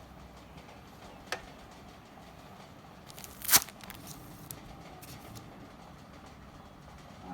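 Handling noises: a single sharp click a little over a second in, then a short, louder noisy rush around the middle, followed by a few faint clicks.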